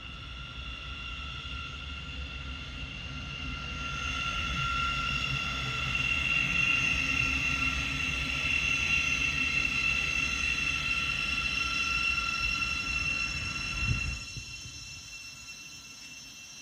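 Electric train running past on the main line: a steady high whine over a low rumble that builds over several seconds, then cuts off abruptly about fourteen seconds in.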